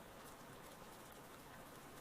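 Light rain falling in a faint, steady patter, with scattered single drops ticking through it.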